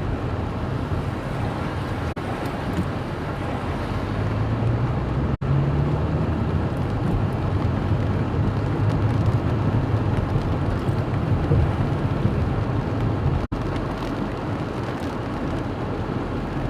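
Storm wind buffeting the microphone together with heavy rain, a steady low rumbling noise. The sound cuts out for a split second three or four times.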